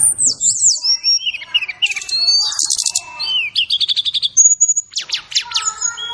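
Brown-chested jungle flycatcher (SRDC) singing a loud, fast, varied song of high falling whistles, quick trills and rapid runs of notes, with one held high whistle about four seconds in.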